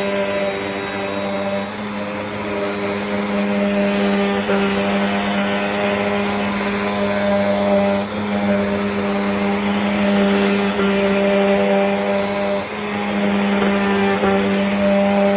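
Bissell CleanView Compact upright vacuum (model 3508) running steadily while vacuuming a rug: a loud, even motor hum with a thin high whine, dipping briefly now and then as the vacuum is worked back and forth.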